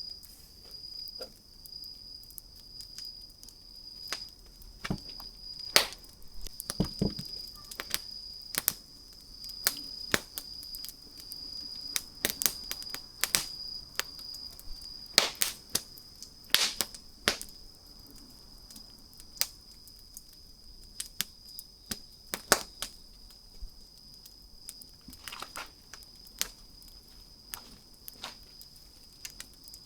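Wood campfire crackling, with irregular sharp pops and snaps, louder clusters about six seconds in, around the middle and about two-thirds of the way through. A steady high-pitched tone runs underneath.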